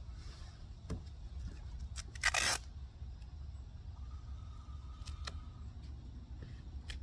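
Tape being pulled and torn off a roll to mask the paint around a car headlight: one loud, short rip about two seconds in, with scattered small clicks and handling noises around it.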